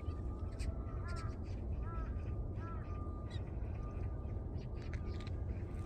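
Crows cawing: three short calls about a second apart, over a steady low rumble.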